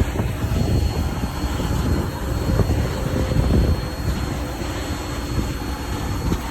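Steady low rumble of running engine machinery, with a faint high steady whine above it.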